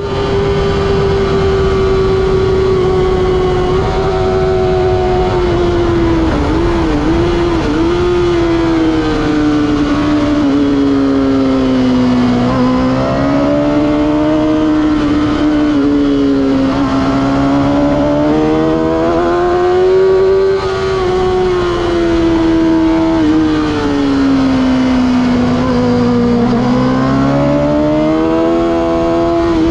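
Kawasaki ZX6R inline-four sport-bike engine running hard at high revs on a racetrack, its high-pitched note rising and falling slowly over several seconds as it accelerates and eases off, with a quick wavering of pitch about seven seconds in.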